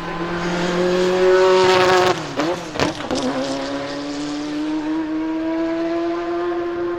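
Ferrari F40 LM's twin-turbo 2.9-litre V8 accelerating hard. The revs climb, then drop sharply about two seconds in with a couple of sharp cracks from the exhaust as it shifts up, and the engine pulls again with the revs rising steadily.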